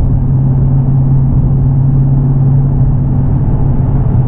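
2018 Dodge Challenger Scat Pack's 6.4L Hemi V8 cruising at a steady highway speed through a muffler-delete exhaust: straight pipe in place of the mufflers, resonators kept. It gives a steady, loud, low hum with no revving.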